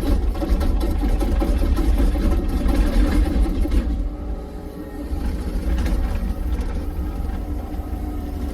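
Engine running steadily with a strong low rumble, rising and easing slightly in loudness.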